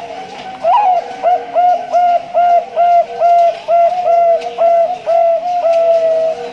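Male zebra dove (Bangkok-line perkutut) singing its cooing song: a rising opening note, then a quick run of about fifteen short, even coos at about three a second, the last one drawn out.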